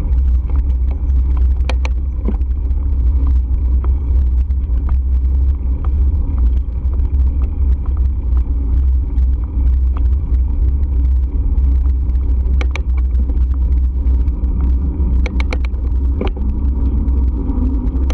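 Steady low rumble of wind and road noise on the microphone of a moving bike, broken by a few sharp clicks or rattles: one about two seconds in, one past the middle, and a quick cluster of three or four near the end.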